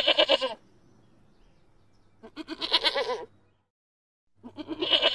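Camel bleating: loud wavering calls about two seconds apart, each lasting about a second.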